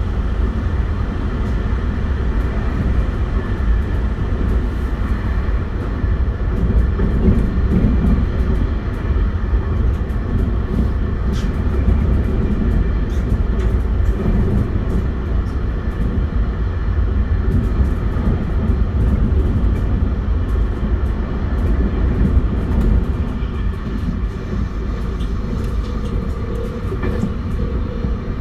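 A JR West 271 series electric train under way, heard from inside the carriage: steady wheel-on-rail rumble with the even hum of its Hitachi SiC inverter and traction motors at running speed, and scattered faint clicks. Near the end the rumble eases slightly and a steady mid-pitched tone comes in.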